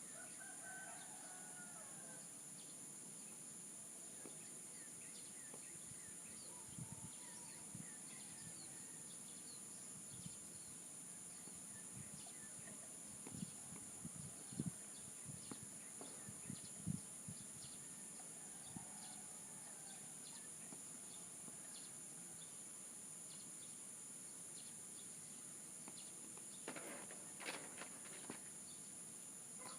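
Quiet rural morning ambience: a steady high insect drone with faint, scattered bird calls. A rooster crows faintly at the start, and a few soft low knocks come around the middle.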